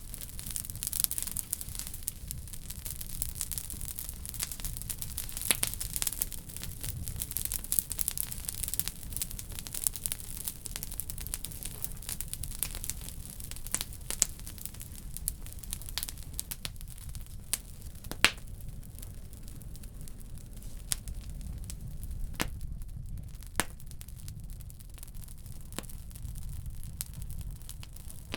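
Wood burning in a wood stove, crackling with scattered sharp pops, the loudest about eighteen seconds in. A high hiss from the fire is stronger over the first ten seconds or so, under a low steady rumble.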